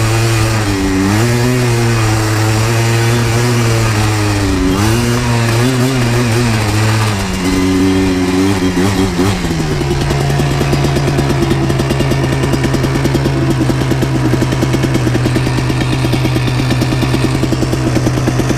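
Yamaha Blaster 200 quad's single-cylinder two-stroke engine running under way. Its revs rise and fall with brief dips through the first seven seconds or so. The pitch drops and then holds steady for about nine seconds, falling away right at the end as the machine slows.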